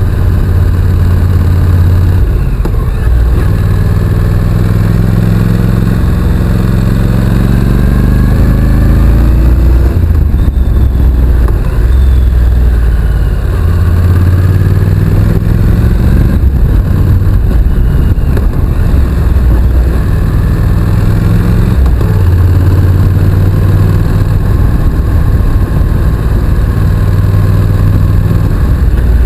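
Honda NC750X's parallel-twin engine running under way, loud and steady, its revs climbing slowly and then dropping several times.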